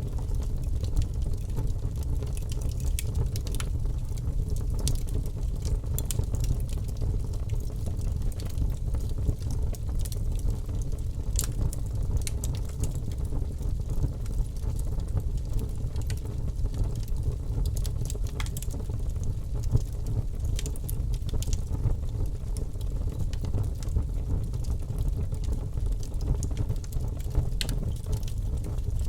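Campfire burning: sharp crackles and pops, irregular and a few each second, over a steady low rumble.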